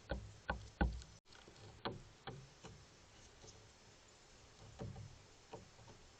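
Irregular knocks and thumps on the feeder close to the microphone, as a visiting animal moves and pecks: three heavy thumps in the first second, a few lighter taps after, and a couple more near the end.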